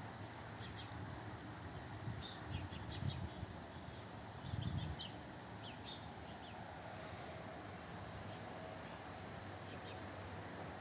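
Small songbirds chirping in short, scattered high chirps, with two brief low muffled bumps, about three seconds and about four and a half seconds in.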